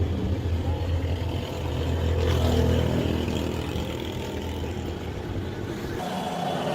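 A motor running with a steady low hum that swells slightly about two seconds in; near the end the sound changes abruptly as the low hum drops away.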